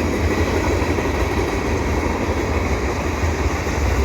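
CN freight train rolling past, a steady rumble of the cars on the rails.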